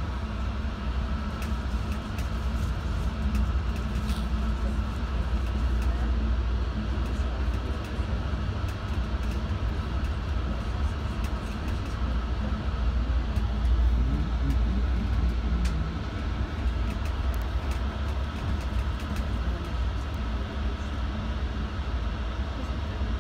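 Moving passenger train heard from inside the carriage: a steady low rumble of wheels on rails, with a faint steady whine above it.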